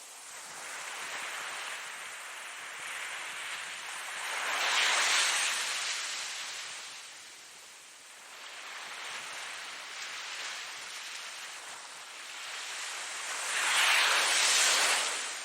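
Ocean waves breaking: a rushing hiss that swells and ebbs, with two bigger waves cresting about five seconds in and again near the end.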